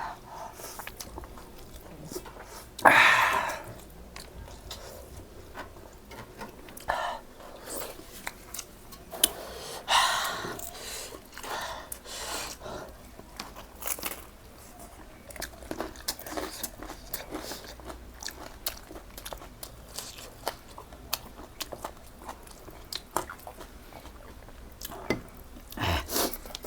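Close-miked chewing and biting of food, with soft crunches and many small mouth clicks, and a few louder bursts about three and ten seconds in.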